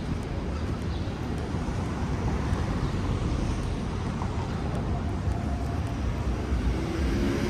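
City street traffic noise: a steady rumble of passing vehicles, growing a little louder toward the end.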